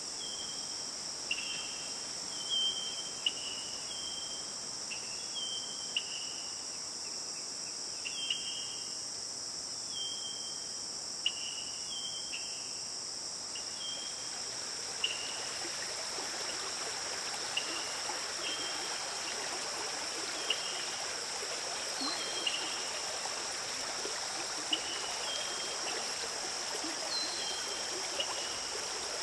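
Forest ambience: a steady high insect drone with short high chirps repeated about once a second, and the rushing of a stream that comes up about halfway through.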